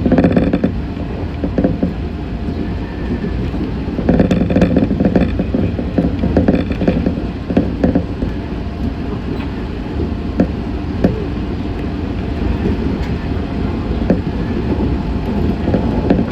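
Meitetsu 6500 series electric train running between stations, heard from inside the car: a steady rumble of wheels on rails, with a few sharp clacks a little after the middle.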